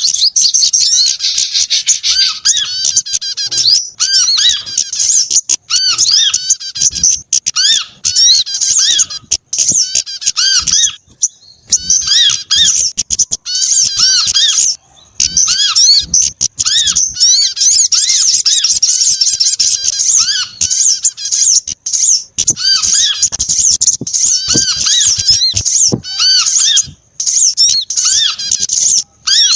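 Mixed calls of several small songbirds layered into a bird-trapping lure track: nearly nonstop rapid, high-pitched chittering and twittering, with a short arched squeak repeating lower down. There are two brief lulls in the middle.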